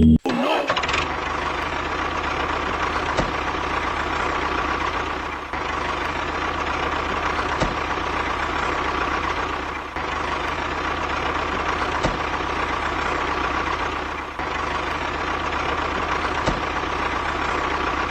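A small motor on a DIY model tractor running steadily with a light whine and a low hum, with a faint tick about every two seconds.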